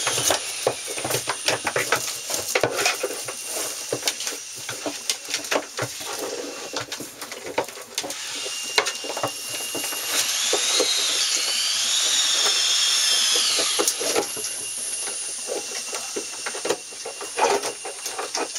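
Knocking and clattering as an air-conditioning unit and its power cord are handled and fitted, with a cordless screw gun whirring for a few seconds about ten seconds in, its pitch dipping and rising as it drives.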